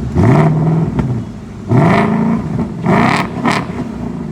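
2025 Ford Mustang GT's 5.0-litre V8 revved remotely three times through its active exhaust, with nobody in the car. Each rev rises quickly and falls back to idle.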